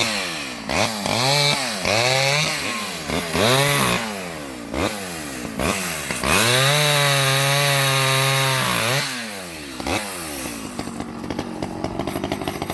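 Stihl 011 AV two-stroke mini chainsaw revved in several short bursts, then held at full throttle for about three seconds, then dropping back to idle.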